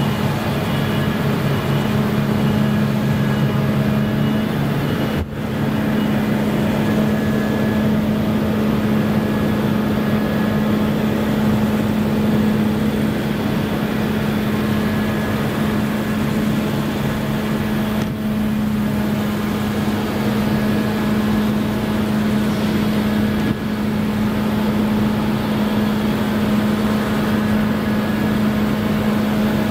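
Claas Lexion combine harvester running steadily while harvesting, a continuous machine drone with a strong steady hum.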